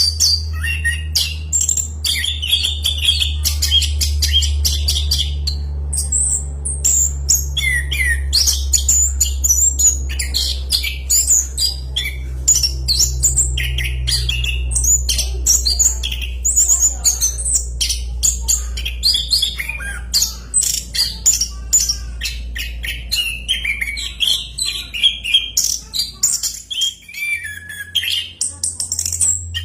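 Orange-headed thrush (anis kembang) singing a long, fast, varied song of whistles and chirps without pause, over a steady low hum that cuts out near the end.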